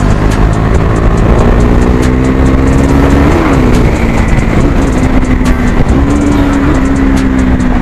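KTM Duke 390's single-cylinder engine running loud through an exhaust with its dB killer removed. Its pitch rises slowly, drops sharply about three seconds in, then holds fairly steady.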